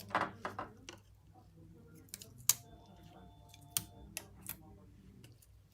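Several sharp clicks and small taps, like small hand tools being picked up and set down during a phone screen repair. A faint steady tone runs for about a second and a half in the middle.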